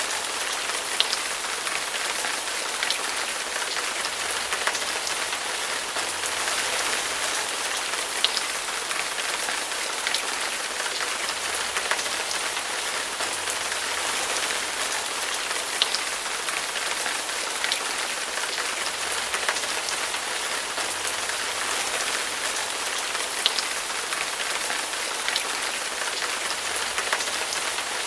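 Steady rain soundtrack: rain falling on a surface, with the sharp ticks of single drops standing out now and then.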